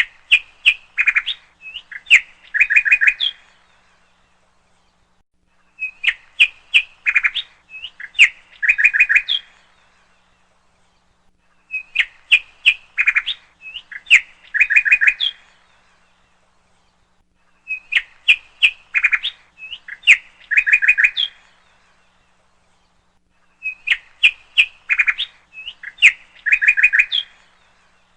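A songbird singing: the same phrase of quick chirps ending in a trill, about three seconds long, repeated five times about every six seconds, with silence between.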